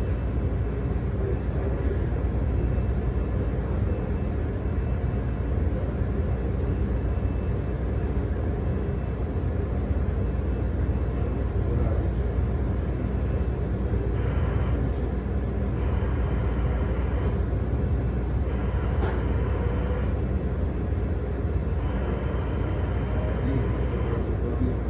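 Steady low drone of a ship's machinery, a constant hum with no speech. Several stretches of higher noise, each a second or two long, come and go in the second half.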